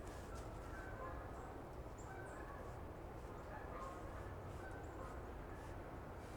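Quiet forest ambience: a steady low rush, with faint, scattered short chirps of small birds and a few soft ticks.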